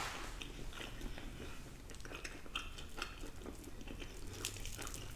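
A person chewing food close to the microphone, faint, with scattered small mouth clicks.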